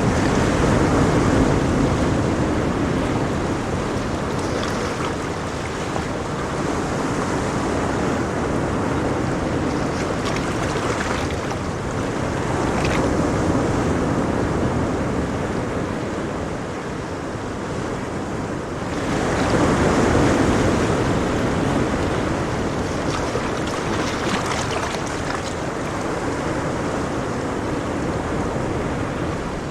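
Ocean waves breaking and washing on a shore, a continuous surf noise that swells and eases over several seconds, with a louder wave about two-thirds of the way through.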